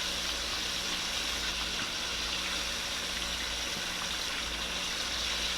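Buttermilk-soaked chicken legs frying in hot oil: a steady sizzle.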